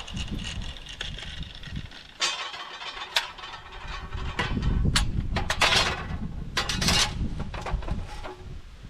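Irregular knocks and clatters of steel flat stock being handled in a metal shop, busiest in the middle stretch, over a low rumble.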